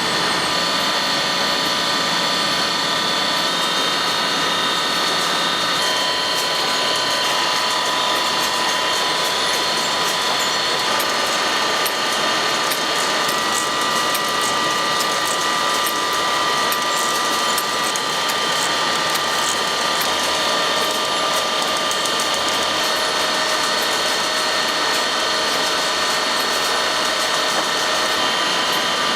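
Machinery running steadily: a constant mechanical hum with several steady whining tones and fast, fine rattling clicks throughout.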